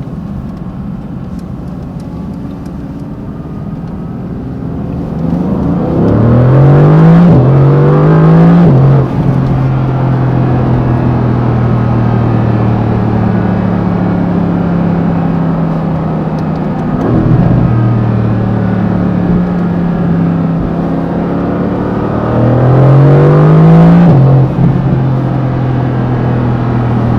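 Mercedes-AMG GT C Roadster's twin-turbo V8 pulling hard: its pitch climbs quickly twice in a row with a brief drop between, an upshift, about six seconds in, then it settles to a steady cruise. A second hard pull climbs again near the end, then drops back.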